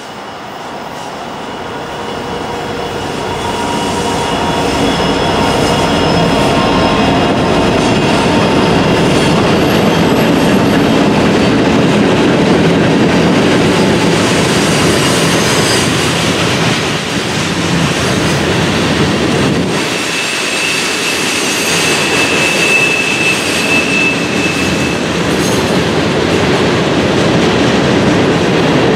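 BNSF freight train led by five diesel-electric locomotives (two SD60Ms, a GP60B and two GP38-2s) approaching and passing, the engine sound growing louder over the first few seconds. Then freight cars rolling by with steady wheel noise and clatter over the rails, and a high steady wheel squeal for a few seconds about two-thirds through.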